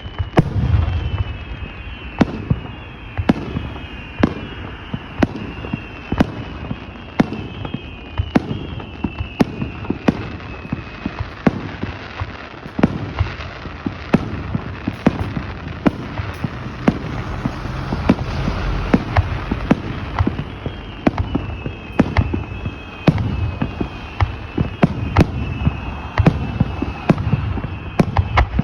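Fireworks display: aerial shells bursting in a steady run of booms, about one or two a second, with a stretch of crackling in the middle. Repeated falling whistles sound over the bursts near the start and again near the end.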